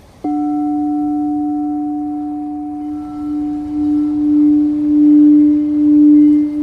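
Quartz crystal singing bowl sounded about a quarter second in, giving a deep, pure ringing tone with fainter higher overtones that fade over a few seconds. The tone is then sustained and grows, swelling and ebbing about once a second.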